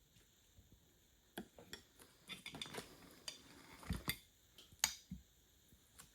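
Kitchen utensils and dishes being handled: a scatter of light clinks and knocks over a few seconds, the sharpest one near the end.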